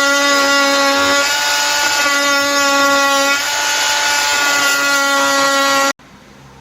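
KIMO 20V cordless oscillating multi-tool running with a steady high whine and a noisy buzz over it, easing off briefly twice, then stopping abruptly near the end.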